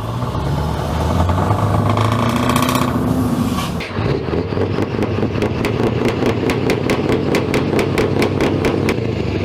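Truck diesel engine running, swelling briefly about two seconds in, then with a regular sharp ticking about four times a second over the engine sound from about four seconds on.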